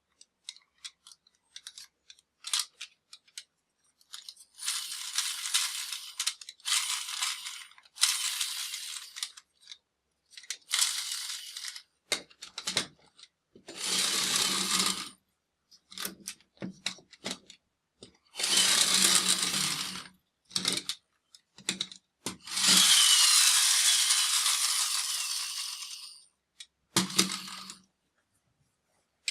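Plastic toys and their packaging being handled: bursts of rustling or crinkling lasting one to three seconds, with many short plastic clicks and knocks in between.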